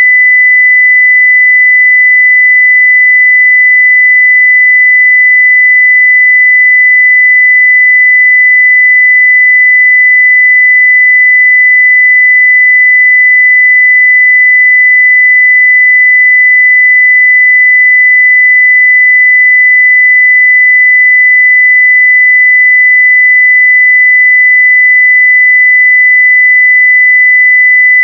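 Continuous 2 kHz sine-wave test tone at full level (0 dB), a single steady pitch that does not change.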